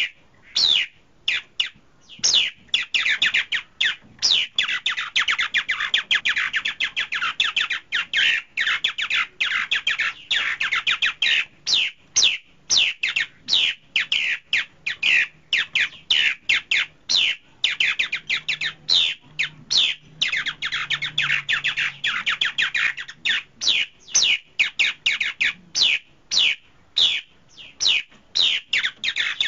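Songbird calls: a rapid stream of high chirps, each sliding down in pitch, running together into fast chattering runs.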